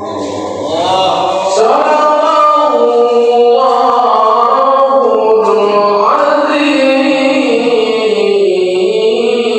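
Male qari reciting the Quran in melodic tilawah style: long held notes ornamented with sliding pitch turns, a phrase beginning low and climbing about six seconds in, then falling away.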